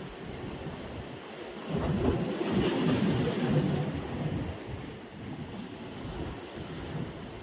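Wind buffeting the microphone over the wash of sea surf on the beach, rising in a louder swell for a few seconds about two seconds in, as from a gust or a breaking wave.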